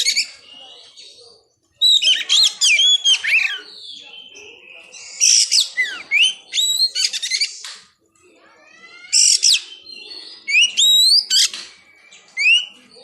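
Oriental magpie-robin (kacer) singing: loud phrases of clear whistled notes sliding up and down, mixed with rapid chattering notes, coming in four or five bursts a second or two apart.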